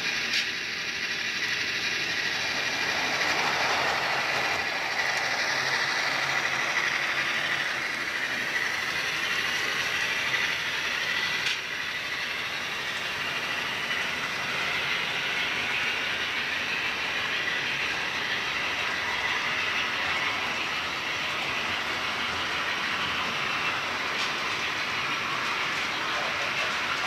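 HO scale model train running laps on newly laid flex track: a steady electric motor whine with wheel and rail noise and a soft clickety-clack, and one sharp click about halfway through.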